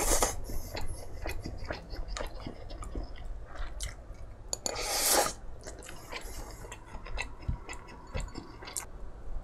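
Close-miked chewing of tteokbokki, with many small wet mouth clicks. About five seconds in there is a louder slurp as a sip is taken from a small glass bowl.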